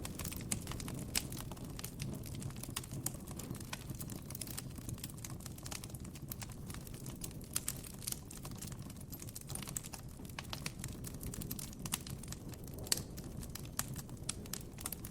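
Wood campfire crackling: dense, irregular snaps and pops, a few louder than the rest, over a low steady rumble.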